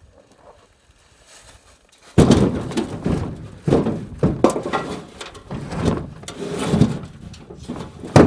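Quiet at first, then from about two seconds in a run of heavy wooden thunks and knocks, roughly one a second: freshly cut firewood rounds being handled and tossed down.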